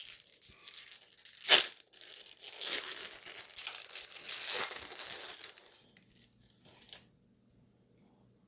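Foil trading-card pack wrapper crinkling and being torn open, with one sharp rip about a second and a half in; the rustling stops about seven seconds in.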